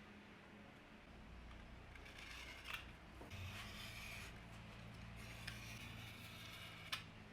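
Faint hand-work sounds: two stretches of rubbing or scraping with a few sharp clicks, over a low steady hum.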